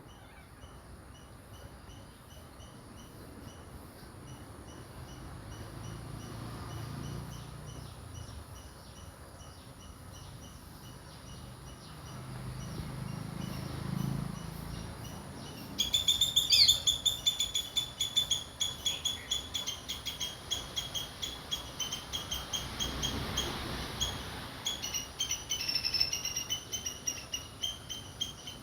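A bird chirping in a fast, even series of short calls that turns loud about halfway through; before that a fainter chirp repeats at a steady pace.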